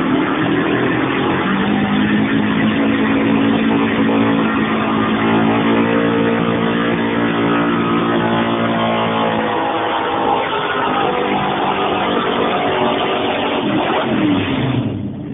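Pulling truck's engine running hard at high revs under load during a pull, holding a steady pitch for most of the run. It turns rougher about ten seconds in and drops off near the end.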